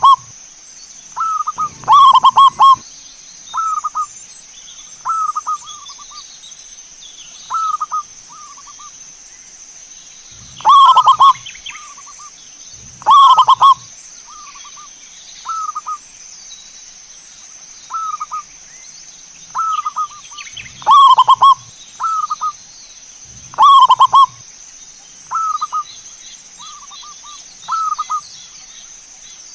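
Zebra doves (perkutut) cooing: short repeated phrases every one to three seconds, some much louder than the rest.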